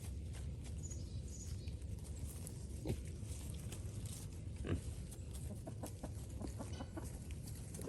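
Pigs grunting, with a couple of sharp knocks about three and just under five seconds in.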